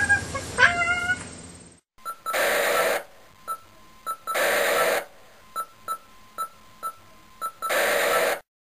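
A short high-pitched warbling sound, then an electronic outro: three bursts of whooshing noise about two and a half seconds apart, with quick regular beeps between them.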